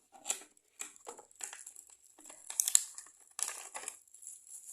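Packaging crinkling and rustling in irregular bursts as a small bonus package is handled and opened by hand.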